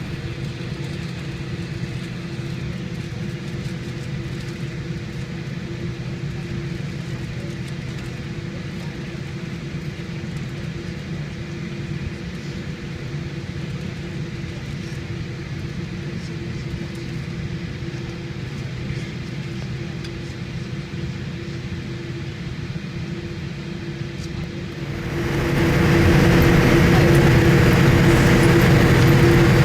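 Steady jet engine and cabin hum of a Boeing 787-8 with GE GEnx-1B engines, a low rumble with a constant droning tone, which swells markedly louder and brighter near the end.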